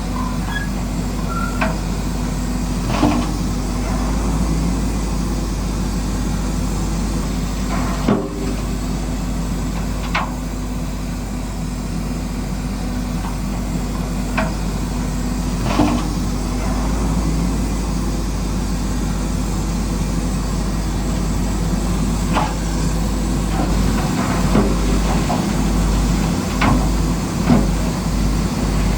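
Radio-controlled model bulldozer's electric drive running steadily, with a dozen or so sharp knocks and clicks scattered through it as rocks are pushed and shifted.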